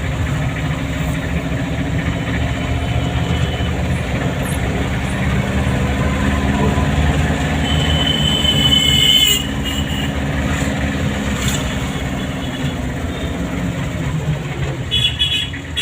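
Car driving through town traffic, with steady engine and road rumble. About eight seconds in, a high squealing tone with overtones builds up, then stops abruptly a second later.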